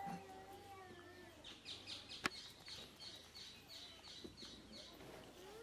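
Birds calling: a quick series of short, high chirps, about three a second, through the middle, with long wavering calls near the start and a single sharp click a little over two seconds in.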